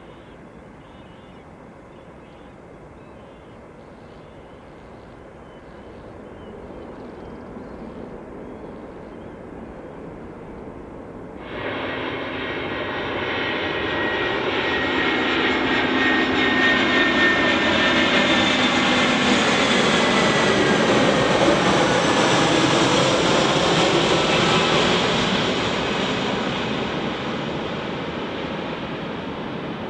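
Airbus A320 jet airliner passing low on its landing approach: faint at first, then its engine noise comes in sharply about eleven seconds in, swells with a whine that slowly falls in pitch as it goes by, and fades near the end.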